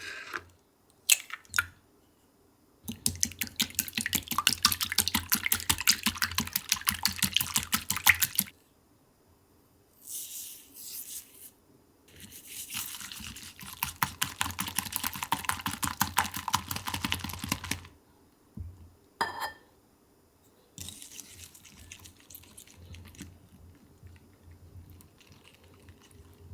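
A whisk beating a mixture in a bowl: two bouts of rapid, rhythmic clicking a few seconds each, with a few lighter clinks and taps between them.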